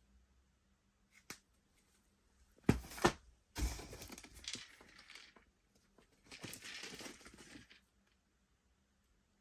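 Handling sounds: two sharp knocks about three seconds in, then two stretches of rustling or scraping lasting a second or two each.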